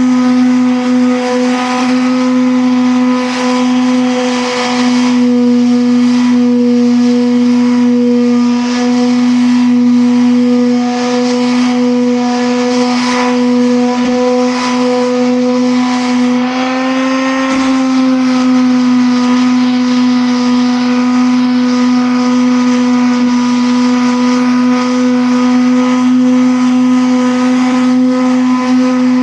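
A motor running steadily with a constant pitched hum, rising slightly in pitch for a moment about two-thirds of the way through.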